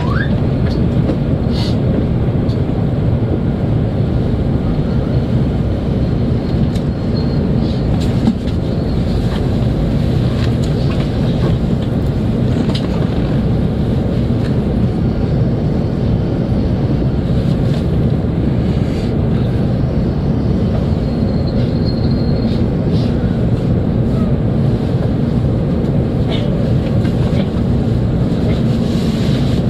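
Steady low rumble and rush inside the passenger cabin of an E7/W7-series Hokuriku Shinkansen train, with a few faint ticks.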